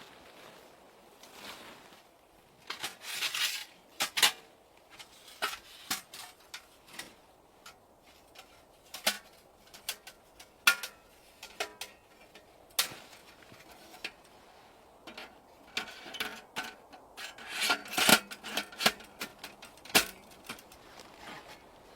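Irregular handling sounds: scattered clicks and knocks with a few short scraping, rubbing passages, as of wood or utensils being worked by hand.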